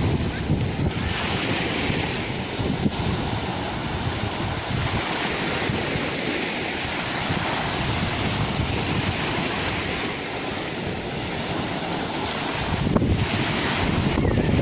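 Sea waves surging and washing in a steady rush that swells and eases every few seconds, with wind buffeting the microphone. A single sharp click near the end.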